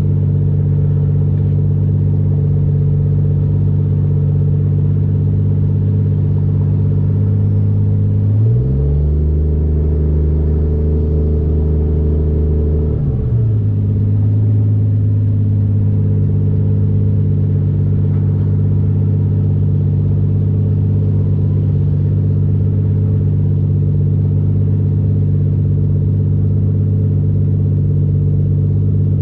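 Nissan 240SX's swapped 1JZ-GTE VVT-i turbocharged straight-six running steadily. About eight seconds in its pitch drops suddenly, holds lower for about four seconds, then rises back.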